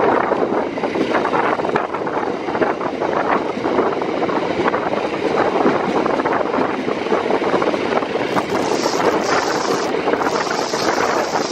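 KA Joglosemarkerto passenger train running, a steady rumble and rush of wheels on track and air. A higher hiss joins in for a few seconds near the end.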